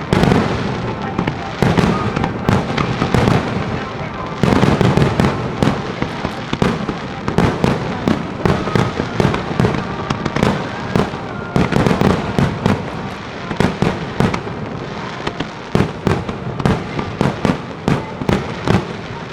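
Fireworks finale barrage: aerial shells bursting in quick succession, many sharp bangs a second overlapping with crackling over a continuous rumble.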